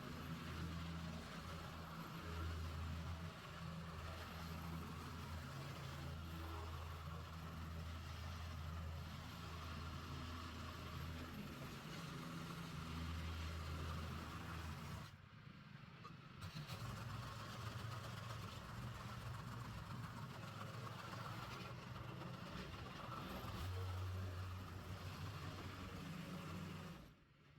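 An engine running, its low note shifting in level and pitch, with a brief drop about fifteen seconds in and again near the end.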